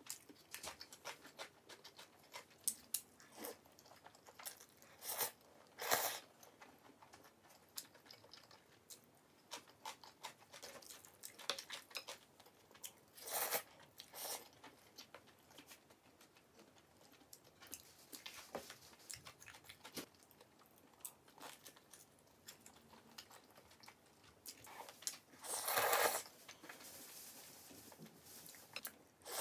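Close-up mukbang eating sounds: chewing and biting Buldak spaghetti and cheese kielbasa sausage, in scattered short crunches with a couple of longer noisy stretches.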